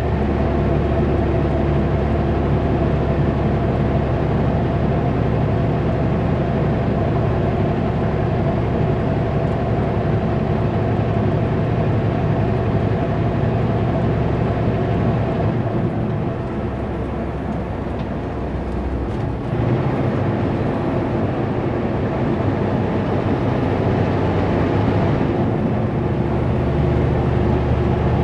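Kenworth W900L semi truck's diesel engine running steadily under load, hauling a heavy Super B trailer set, with road noise. Past the middle the engine note drops and softens for a few seconds, then picks back up.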